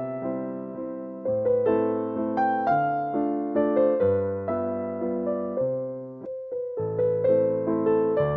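Background piano music: a slow waltz in A minor, with notes struck and left to fade.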